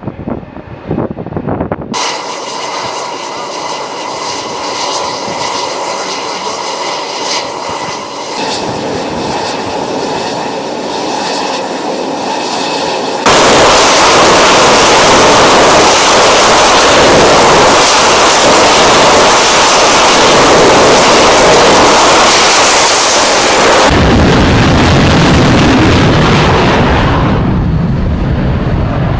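Turbine engines of carrier aircraft on a flight deck: a high engine whine with several steady tones, then, about halfway through, a sudden much louder steady noise of an aircraft at full power for a catapult launch, lasting about ten seconds before dropping to a low rumble that fades near the end.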